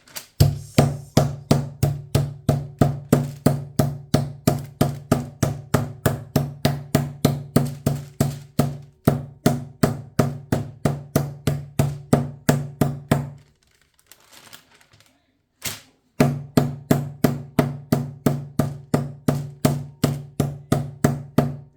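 Chicken breast being pounded flat under wax paper: a steady run of booming thuds on the board or counter, about two to three strikes a second. The pounding pauses about thirteen seconds in, then starts again a couple of seconds later.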